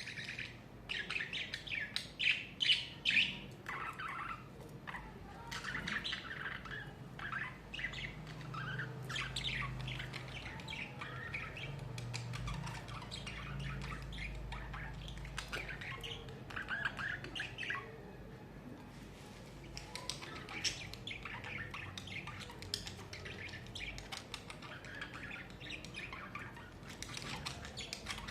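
Budgerigars chattering: a flock of pet budgies giving rapid, overlapping chirps and squawks, densest in the first few seconds, with a brief lull about two-thirds of the way through.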